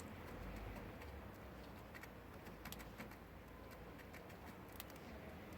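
Budgerigar preening: faint, irregular small clicks of its beak working through its feathers, over a low steady hum.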